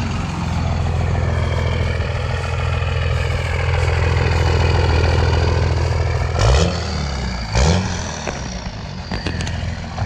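Straight-piped 24-valve Cummins inline-six diesel in a second-gen Dodge, running steadily through a 4-inch straight pipe, then blipped twice, about six and a half and seven and a half seconds in. A few sharp clicks follow near the end.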